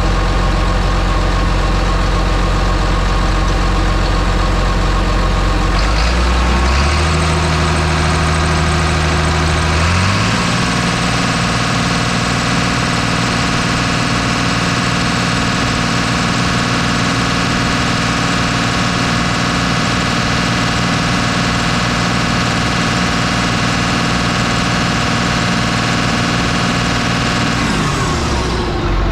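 John Deere 724J loader's common-rail diesel engine running, its speed stepping up about six seconds in and again about ten seconds in, then held steady at the higher speed before it drops off near the end.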